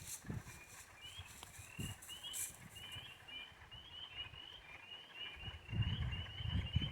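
Many short, high, rising chirps repeating rapidly and overlapping, from small calling animals. A low rumble on the microphone comes in near the end.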